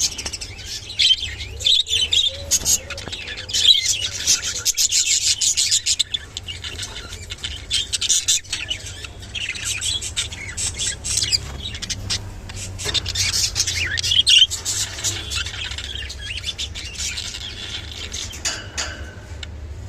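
Budgerigars chattering and warbling: a continuous stream of quick chirps and scratchy squawks.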